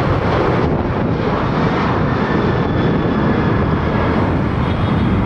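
Boeing 737 jet engines at go-around thrust, a loud, steady rush of engine noise as the airliner climbs away from a discontinued landing.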